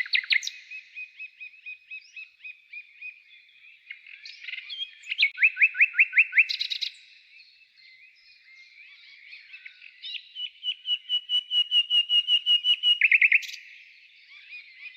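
Songbirds singing, with constant twittering between two loud trilled song phrases: one about five seconds in and a longer one from about ten to thirteen seconds.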